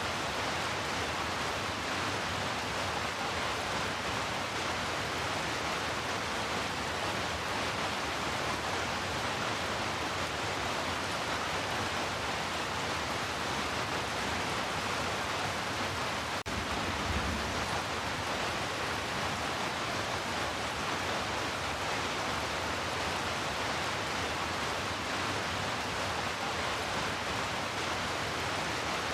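Heavy rain falling as a steady, even hiss. A little past halfway there is one brief click followed by a short low thud.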